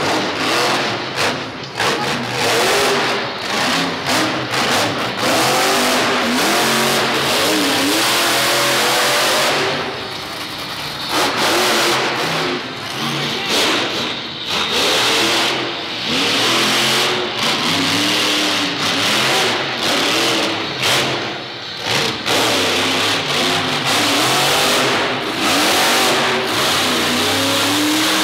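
Grave Digger monster truck's supercharged V8 revving hard again and again, the pitch climbing and falling with each blip of the throttle, easing off briefly about ten seconds in.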